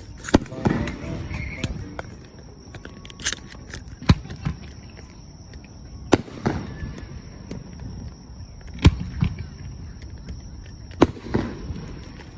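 Fireworks shells bursting: five sharp bangs about two to three seconds apart, each trailing off in an echoing rumble with smaller crackles.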